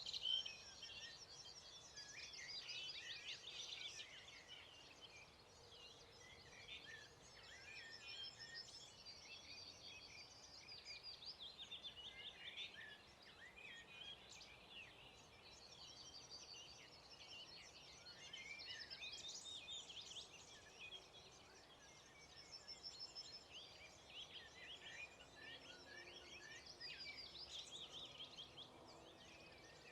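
Dawn chorus of several songbirds singing at once, faint, with overlapping trills and chirps that go on all the way through.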